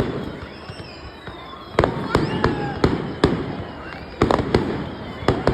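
Aerial fireworks going off in a quick series of sharp booming bangs, about ten of them, after a quieter first second or two.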